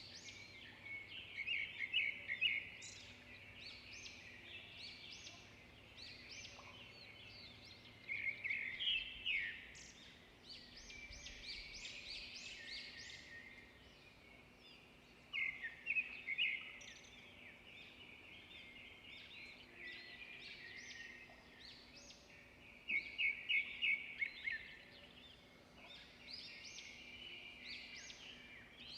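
Several small songbirds chirping and singing without pause. Loud bursts of quick repeated notes come four times, spread through the stretch.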